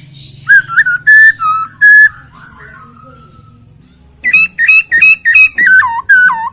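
Laughingthrush (poksay hongkong) singing loud, clear whistled notes: a short run of about five notes, a pause of two seconds, then a quicker run of about eight, the last ones swooping lower.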